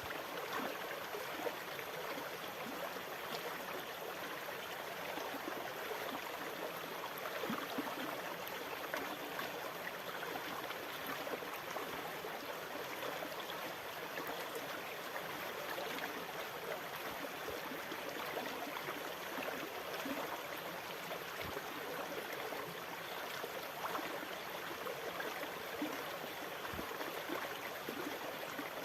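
Sea water washing and gurgling in a steady rush, with no distinct swells of breaking waves.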